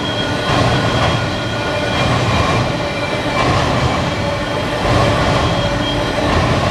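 Canadian Pacific freight train rolling past at close range: a steady rumble of railcars with wheels clicking over the rail joints and faint squealing from the wheels. The sound swells about every second and a half as each car goes by.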